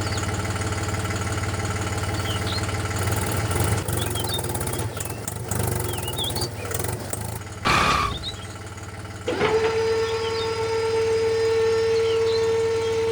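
Small motor of a homemade model tractor running with a steady whine, broken by a short noisy interruption about eight seconds in before it resumes; birds chirp faintly.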